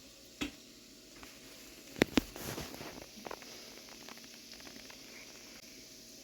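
Butter and garlic sizzling faintly in a pan, broken by a few sharp clicks, the loudest two close together about two seconds in.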